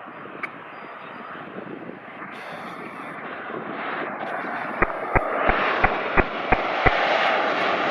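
Boeing 737-800 jet engines running, the noise swelling steadily louder as the airliner comes closer. In the second half a run of seven sharp clicks, about three a second, sounds over it.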